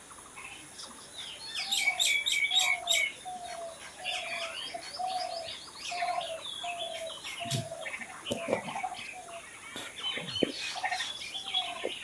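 Several birds chirping and singing together, with a dense flurry of high chirps about two seconds in. A lower note repeats steadily underneath, and a few brief low thuds come past the middle.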